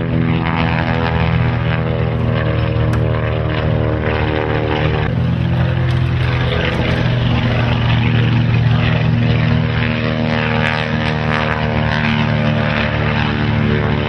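Piston engine of a vintage propeller-driven warbird running steadily, its tone shifting slightly about five seconds in.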